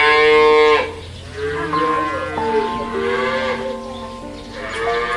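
Cattle mooing: one long moo, then several more overlapping moos, over background music.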